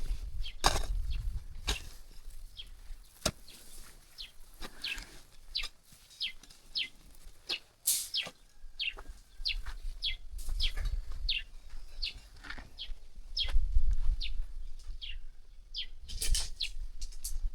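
Small birds chirping: many short, quick chirps that fall in pitch, repeated through the whole stretch. There is low rumbling underneath, in bouts, and a few sharp clicks.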